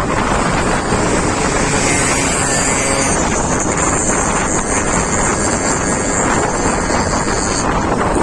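Loud, steady wind buffeting the microphone of a moving vehicle, over road and engine noise. A higher hiss joins about three seconds in and stops near the end.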